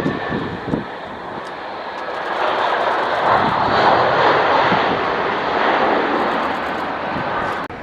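Airbus A320-200 passing close on its arrival, its jet engines making a steady rush that swells to a peak about four seconds in and then eases off. The sound cuts off abruptly near the end.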